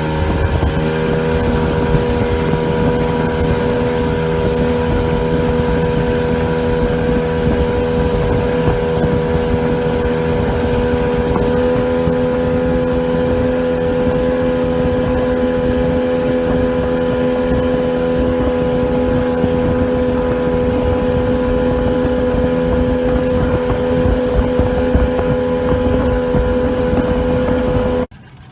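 Outboard motor on a small boat running steadily at high speed, with the rush of the hull and wind, its pitch climbing slightly in the first second. It cuts off suddenly near the end.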